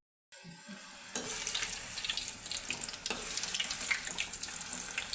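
Grated-cauliflower fritters for Gobi Manchurian deep-frying in hot oil, with a steady sizzle and many sharp crackles; the sizzling jumps louder about a second in.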